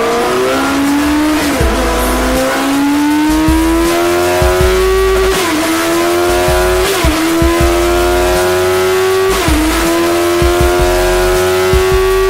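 Suzuki GSX-S750's inline-four engine running hard at high revs on a dynamometer, its pitch climbing slowly and dipping briefly a few times before climbing again.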